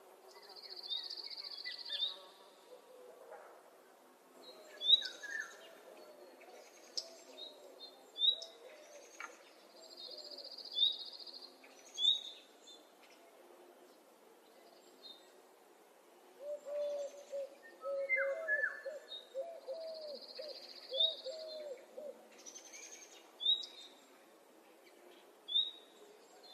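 Several birds singing and calling. One repeats a high, buzzy trill about every nine seconds, between short sharp chirps, and a lower warbling call comes twice.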